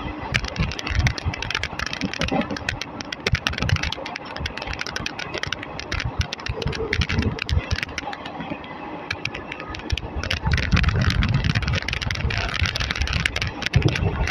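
Indian Railways ICF passenger coach running along the track: a steady rumble with irregular sharp clicks and rattles from the wheels and coach body. The rumble grows louder about ten seconds in.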